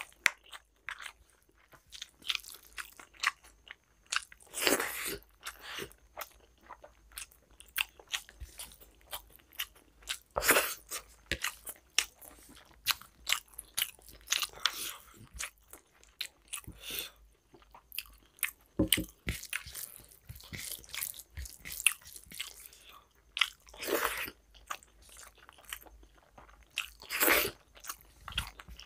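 Close-miked wet eating sounds of rice and mutton curry eaten by hand: chewing and lip smacks as many small irregular clicks, with a louder burst every few seconds. Fingers mixing the rice on the plate add soft squishing.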